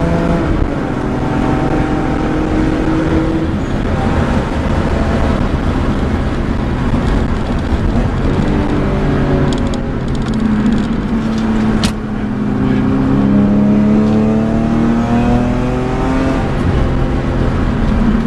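BMW M3 E46's 3.2-litre straight-six with a Supersprint exhaust, heard from inside the cabin at speed. The engine note rises and falls with the throttle, eases off about halfway through, then climbs steadily under acceleration; a single sharp click comes about two-thirds through.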